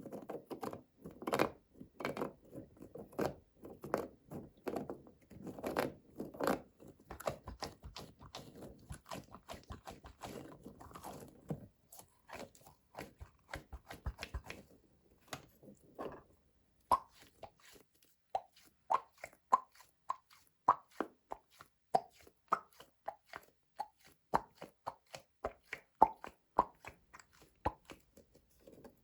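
Close-miked clicks, taps and small pops from plastic candy toys being handled and opened. The first half is a dense run of clicks; from about seventeen seconds on the clicks are sparser, with short pitched pops among them.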